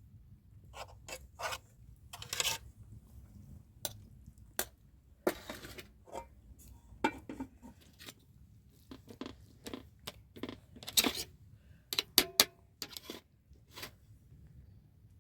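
Irregular clatter of objects being handled: a string of short knocks, clicks and scrapes, a few with a brief ring, the busiest stretch about eleven to thirteen seconds in.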